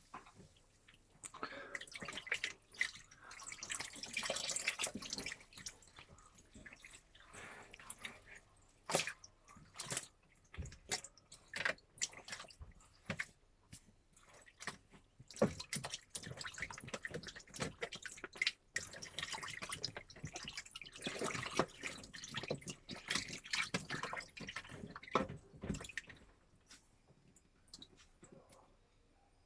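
Washing machine mid-wash: water sloshing and dripping in the drum, with irregular drips, splashes and small knocks coming in uneven waves.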